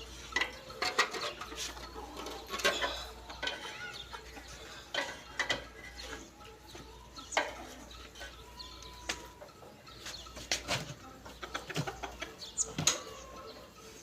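Irregular metallic clinks and knocks, like tools or metal parts being handled, with a hen clucking now and then.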